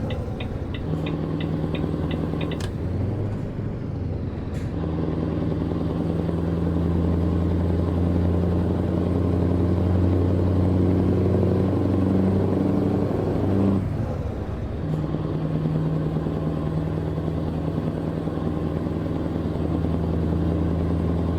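Truck's diesel engine running steadily under way, heard from the cab. A fast regular ticking stops about two and a half seconds in, and about two-thirds of the way through the engine note drops out for about a second and then picks up again.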